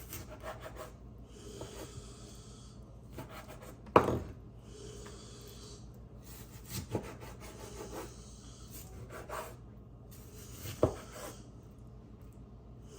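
Knife slicing raw chicken breast into bite-size pieces on a cutting board: scraping slicing strokes with a few sharp knocks of the blade against the board, the loudest about four seconds in.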